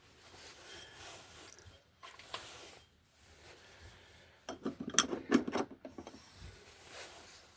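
Spliced electrical wires being folded and pushed back into a junction box: a rubbing and rustling of wire insulation, with a quick run of clicks and knocks against the box about halfway through.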